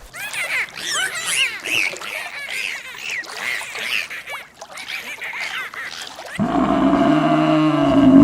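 A flock of birds calling, many short overlapping calls that rise and fall. About six seconds in, a different, louder, deeper steady call from another animal takes over.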